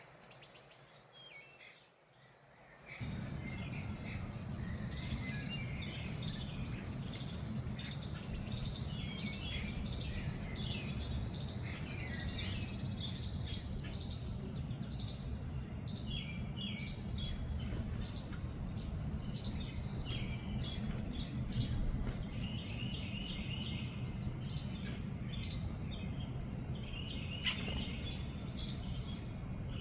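Several small songbirds chirping and calling, with short notes repeated in quick runs, over a steady low rumble. One sharper, louder call comes near the end.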